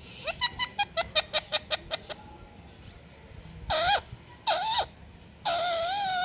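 Pet parrot calling: a quick run of about eleven short chirps in the first two seconds, then three longer calls that waver in pitch, the last held for nearly a second.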